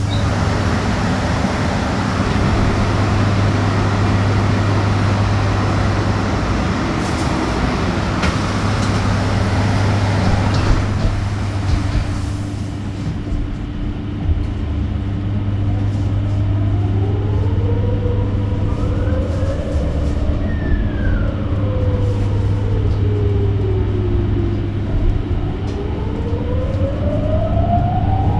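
Electric bus riding, heard from inside the cabin: road noise for about the first ten seconds, then the traction motor's whine rising as the bus speeds up, falling as it slows, and rising again near the end, over a steady low hum.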